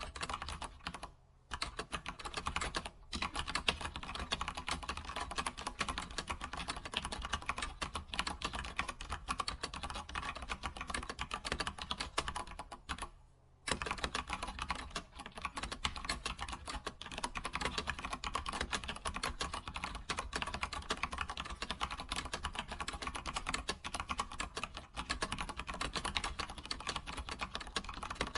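Fast, continuous typing on a computer keyboard, a dense stream of key clicks, pausing briefly about a second in and again for under a second around the middle.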